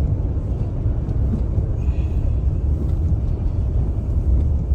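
Steady low rumble of a vehicle heard from inside the cabin as it drives through deep slush on an unplowed road.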